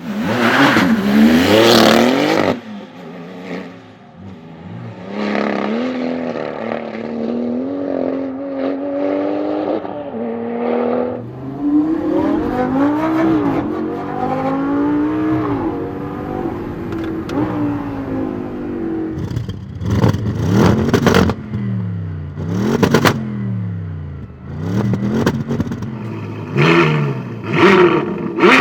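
Supercar engines revving hard and accelerating. Between about five and eleven seconds in, the pitch climbs and drops back several times as the car shifts up through the gears. Loud, sharp revs come near the start, around twenty seconds in and near the end.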